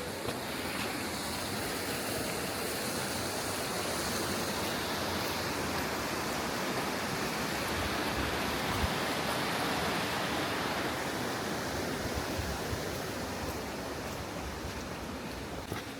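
Rushing water of a mountain stream, a steady, even noise that swells a little in the middle.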